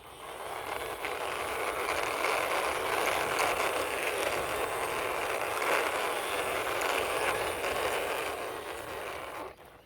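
Toy sand car pushed along by hand, its small wheels making a steady rolling noise that builds up in the first second and stops about nine and a half seconds in.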